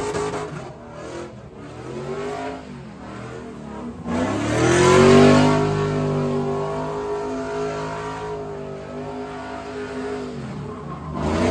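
Car engine revving hard. The revs sag and waver early on, climb sharply about four seconds in, hold high for several seconds, drop away, then climb again near the end.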